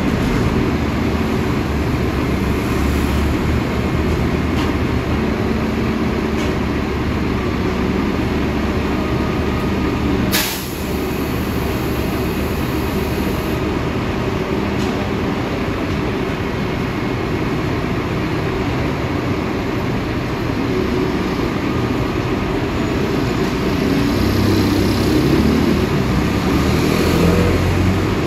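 Heavy engine noise of street traffic around an idling garbage collection truck, steady and loud. A brief sharp burst of noise comes about ten seconds in.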